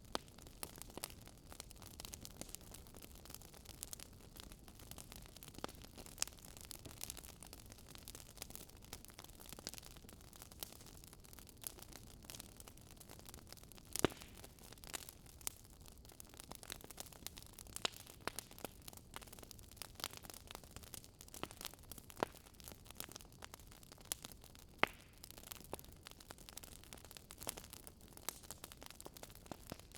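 Wood fire in a fireplace burning with a steady soft hiss and frequent irregular crackles and pops. The sharpest pop comes about halfway through.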